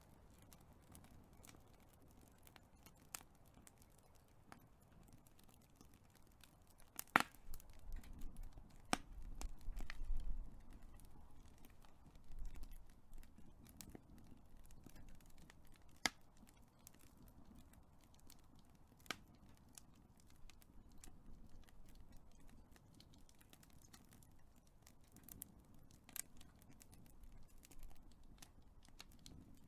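Big wood fire crackling with a steady stream of small snaps and a few sharper pops, the loudest about seven seconds in; a low rumble of the flames swells for a few seconds soon after.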